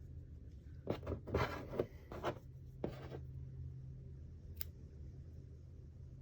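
Yarn and a small crocheted piece being handled while it is finished off and the yarn end pulled through: a few short rustling strokes in the first half, then a single sharp click.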